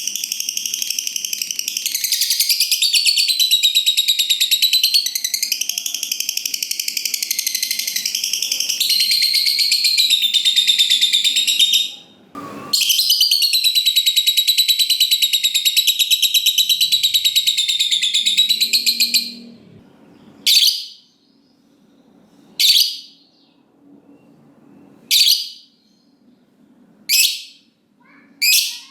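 Lovebird giving its long chattering trill (ngekek panjang), a rapid high-pitched chatter that runs about twelve seconds, breaks briefly and runs on for about six seconds more. It then gives way to short single sharp calls about every two seconds. This long trill is the song that keepers prize in a lovebird in full voice.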